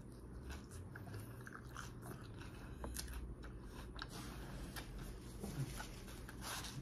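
A person chewing a mouthful of leafy salad, with irregular small crisp clicks as the leaves are bitten and chewed.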